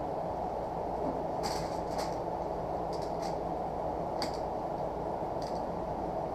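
Steady low rushing noise with about half a dozen sharp clicks scattered through it, from a grabber-type oil filter wrench worked against an oil filter that it fails to grip.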